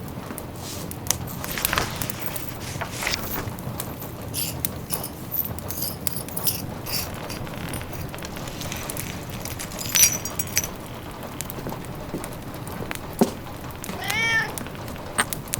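Wood fire crackling with scattered sharp pops over a steady rain-like hiss. Near the end a cat meows once, briefly.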